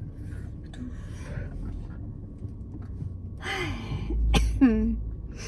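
A woman's breathy exhale about three and a half seconds in, followed by a short vocal sound falling in pitch, like a sigh, over a low rumble.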